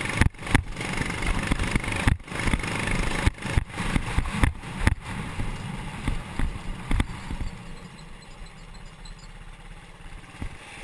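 Mini bike's 6.5 hp Honda-clone single-cylinder engine, governor bypassed, running under way, broken by a few brief dropouts in the first half and growing quieter over the last few seconds.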